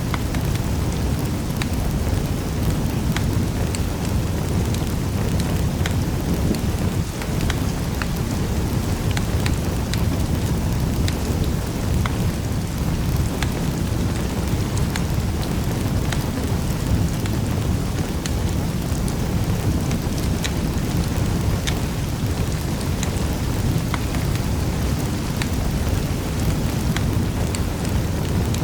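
Wood fire burning in a fireplace: a steady low rumble with many small, sharp crackles and pops.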